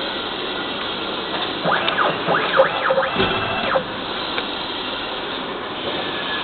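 CNC milling-engraving machine running with a steady hiss. From about two to four seconds in, its drive motors whine in several rising and falling sweeps as the axes speed up and slow down.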